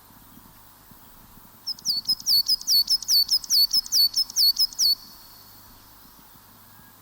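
A songbird sings a fast run of repeated high notes, each slurring downward, about five a second, starting about two seconds in and stopping sharply about three seconds later.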